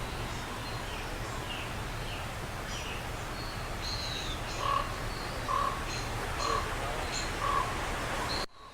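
Wild birds calling in the forest: a short call repeated four times, a little under a second apart, with thin, higher chirps around it, over a steady background hiss. The sound cuts off abruptly just before the end.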